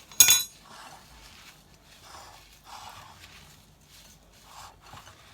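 A sharp clink of a utensil just after the start, then soft crunchy rustling strokes every half second or so: a hand mixing crushed digestive biscuit crumbs with melted butter.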